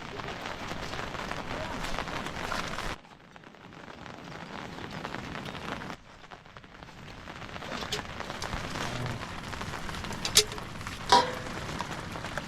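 Steady rain falling, a dense even hiss that drops away abruptly twice and then builds again. Two sharp knocks come near the end, the second ringing briefly.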